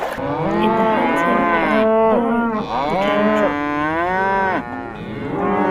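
Cattle mooing: several long, drawn-out calls, one after another.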